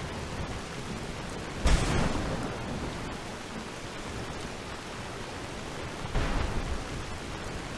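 Steady rain with two sudden claps of thunder, one a little under two seconds in and one about six seconds in, each dying away over a second or so.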